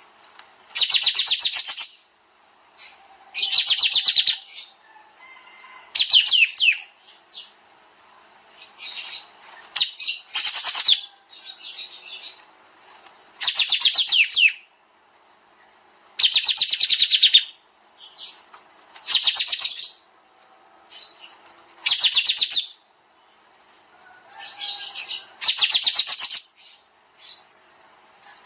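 Kapas tembak songbird singing bursts of very fast, rapid-fire repeated notes, each burst about a second long, coming every two seconds or so with softer scattered chirps between.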